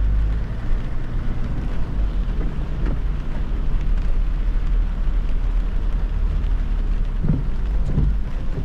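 Car driving on a rain-soaked road: a steady low rumble and hiss of tyres on wet tarmac, mixed with rain noise. There are two brief low thumps near the end.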